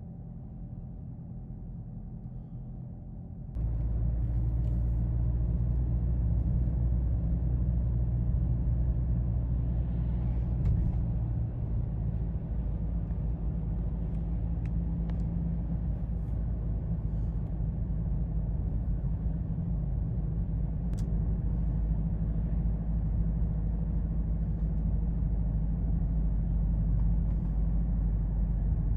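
Ferrari F40 LM's twin-turbo V8 running at steady revs while driving, a deep steady drone that jumps louder about three and a half seconds in.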